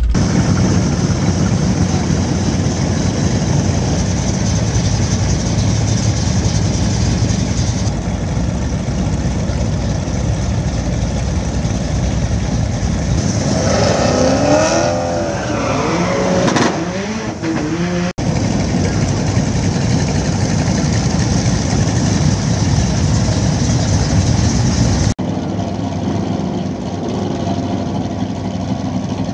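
Car engines running loudly in a steady roar, broken by abrupt cuts between shots. Around the middle comes a brief wavering squeal that rises and falls in pitch.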